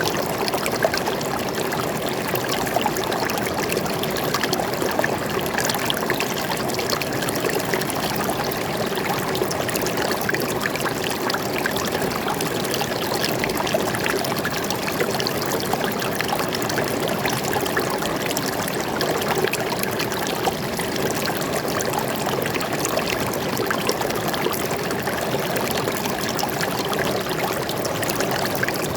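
Flowing water in a forest, a steady, unbroken rush of running water with no let-up.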